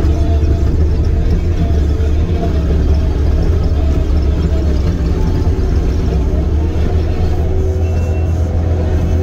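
Diesel engine of a Link-Belt 145 excavator running steadily, a deep even hum with no clear change in speed.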